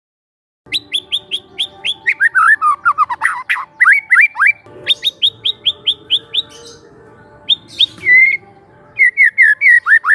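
Young wild white-rumped shama singing, starting about a second in: quick runs of short repeated notes, each a fast downward sweep, in several bursts.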